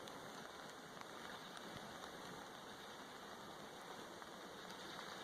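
Faint, steady outdoor noise with no distinct events.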